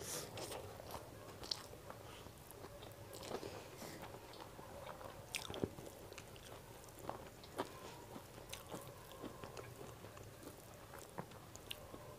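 A person chewing a mouthful of chicken biryani, with scattered soft mouth clicks and smacks, picked up close by a clip-on microphone.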